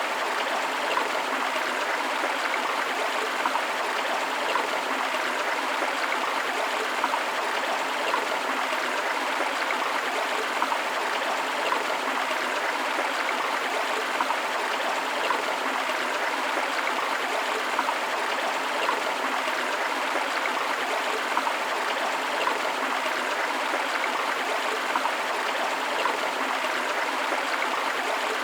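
Steady rush of a forest stream flowing over rocks, with small splashes and trickles coming through the constant flow.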